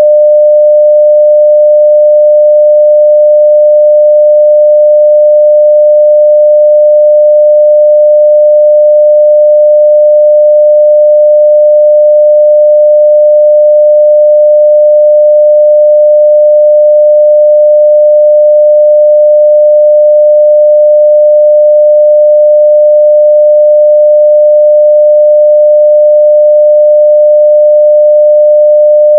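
A steady 600 Hz sine-wave test tone at full level, one pure unbroken pitch.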